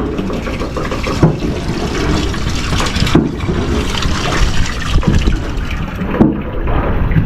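Strong wind gusting across the microphone, a loud rumbling rush that rises and falls, with a few short knocks.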